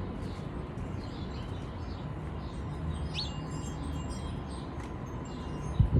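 Small birds chirping now and then over a steady low background rumble, with a short low thump just before the end.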